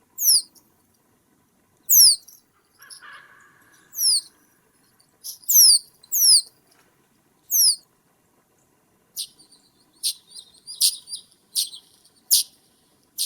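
A small bird calling close by with thin, high notes, each sweeping quickly downward, repeated every second or two. From a little past the middle it switches to a series of short, sharp ticking chips.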